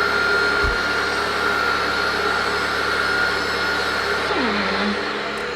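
Electric table saw running steadily with a constant motor whine, while pine trim is ripped to width.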